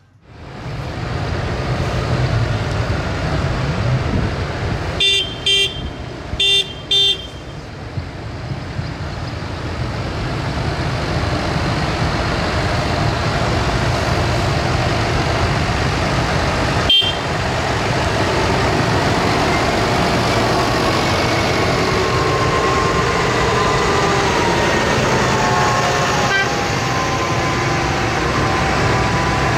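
Tractor engines running steadily, with a vehicle horn tooted four short times in two pairs about five seconds in, and a single sharp click about halfway through.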